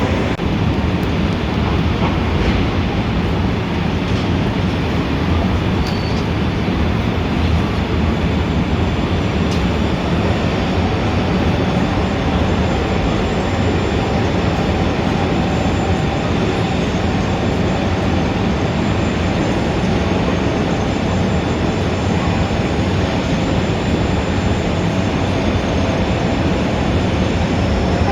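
Dense city traffic ambience: a steady, loud rumble of engines and tyres with no single vehicle standing out, and a faint steady hum that comes in about a third of the way through.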